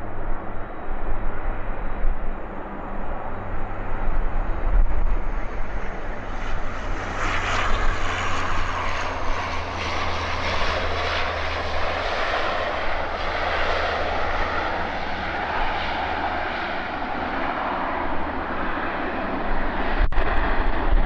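Jet airliner engines running, a steady noisy rumble whose hiss grows stronger about a third of the way in as the aircraft passes. There is a single sharp click near the end.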